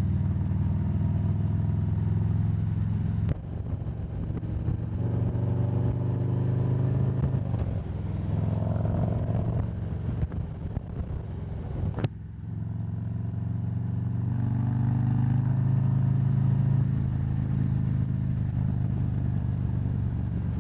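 Harley-Davidson Road Glide's V-twin engine running under way, its pitch rising and falling with the throttle, with some wind noise. The sound changes abruptly twice.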